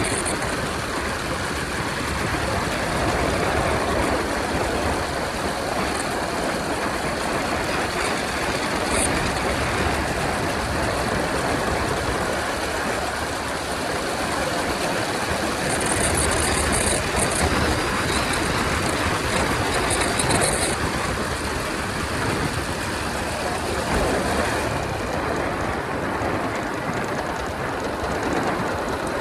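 Honda 125 motorcycle riding at highway speed: a steady mix of engine and road noise.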